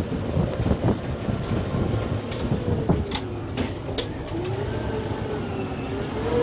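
Kubota M6-141 tractor's diesel engine running under load, its pitch wavering up and down as it works. Several sharp cracks or clicks come between about two and four seconds in.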